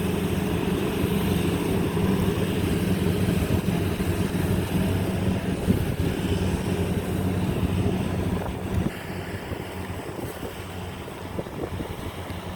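Rice combine harvester's engine running steadily with a low drone. About nine seconds in it drops noticeably in level.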